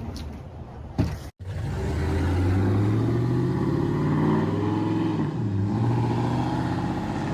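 Pickup truck with its mufflers removed and straight-piped exhaust, engine pulling under load. The engine note climbs steadily, drops briefly about five seconds in like a gear change, then runs on steadily.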